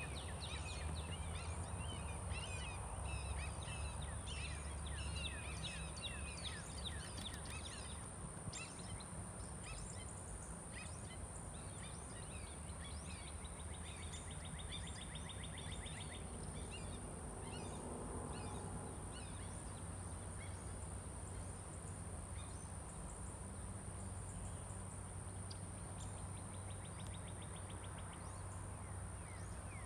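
Several songbirds chirping and singing in quick, varied notes, busiest in the first several seconds, with a fast trill of repeated notes twice, once in the middle and once near the end. A steady low hum and a thin steady high tone run underneath.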